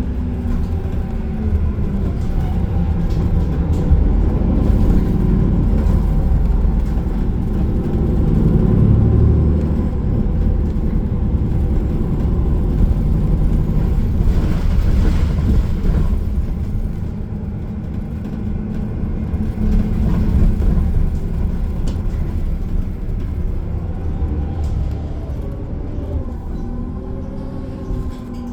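Transit bus driving along a road, heard from inside the passenger cabin: a steady low engine and road rumble, with the engine note shifting in pitch near the end as the bus changes speed.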